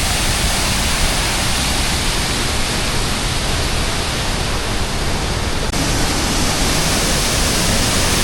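Waterfall rushing: a loud, steady roar of falling water, shifting slightly in tone about six seconds in.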